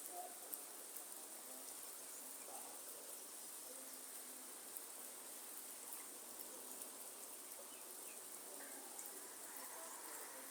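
Light rain falling in a rainforest: a steady, quiet hiss with scattered faint drop ticks, and faint bird calls in the background.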